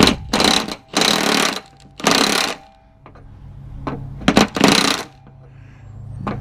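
Impact wrench (burp gun) hammering in several short bursts, each under a second, on a mower deck spindle nut, which comes off easily.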